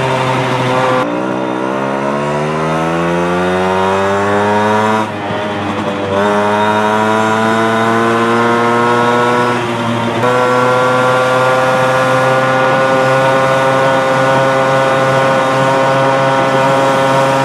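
Two-stroke engine of a Piaggio Ciao moped kitted to 65 cc with a Giannelli City Power exhaust, pulling up through the revs. The pitch rises steadily, drops briefly about five seconds in and again about ten seconds in, then holds at high revs.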